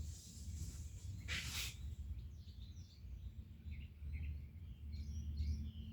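Small birds chirping in short calls, more often toward the end, over a steady low rumble, with a brief hissing noise about a second and a half in.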